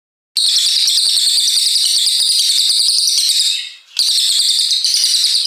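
A cililin songbird singing a long, very fast trilled burst, high-pitched and rattling, starting abruptly and breaking off briefly near the four-second mark before a second burst starts.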